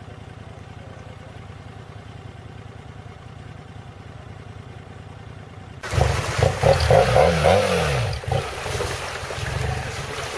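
An engine running low and steady, then about six seconds in a sudden change to a much louder engine sound with wind-like noise, its pitch rising and falling.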